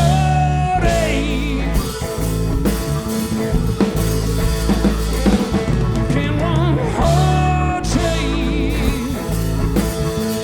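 Rock band playing live in an instrumental passage: drum kit, bass and guitars, with a few wavering held lead notes.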